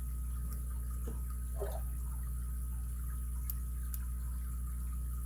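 Steady low hum with a faint high tone over it, and a few faint, sharp clicks of a lock pick working the pins of an ABUS 83CS/55 padlock.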